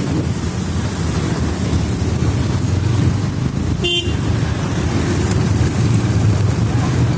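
Steady low rumble of road traffic and vehicle engines, with a brief sharp sound about four seconds in.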